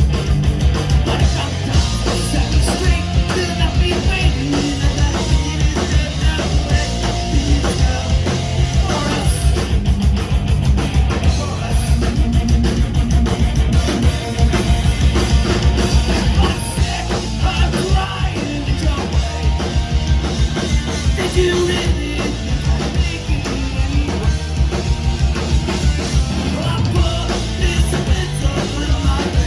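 Loud punk rock band playing, driven by a pounding drum kit, with some singing.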